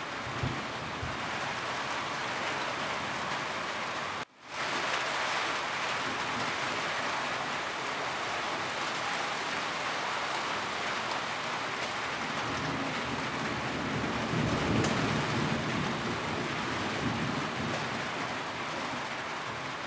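Steady rain falling on a roof, with a low rumble of thunder swelling about two-thirds of the way through. The sound drops out for a split second about four seconds in.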